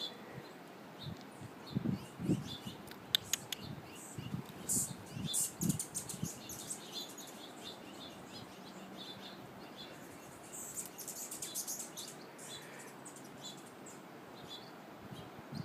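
A young goldfinch giving short, high chirps in quick runs, busiest in the first half and again briefly near the middle, with a few soft low thumps in the first few seconds.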